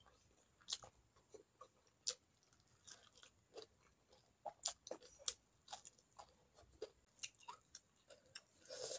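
Quiet, close-miked eating sounds of a person eating rice and fish with her fingers: irregular soft chewing clicks and mouth smacks, with a slightly louder burst near the end.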